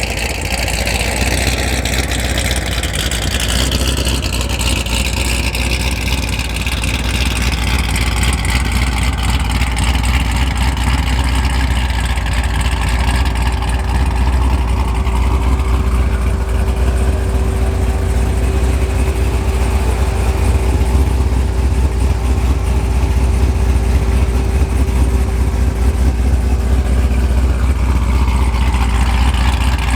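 Car engine idling with a deep, steady exhaust rumble. High whining tones slide down in pitch over the first several seconds, and a steady hum joins about twelve seconds in.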